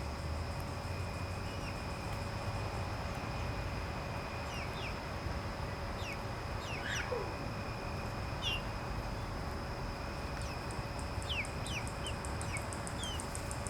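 Young chickens peeping: short, falling high-pitched calls scattered every second or so, over a steady low background rumble and faint steady tones. About ten seconds in, a fast, high-pitched pulsing joins them.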